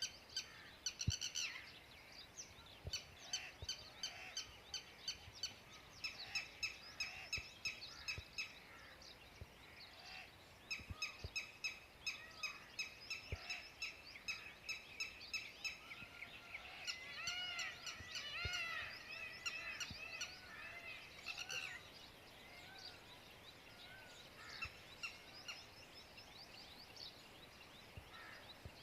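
Small birds chirping and twittering, many short high calls repeating and overlapping, busiest in the middle stretch.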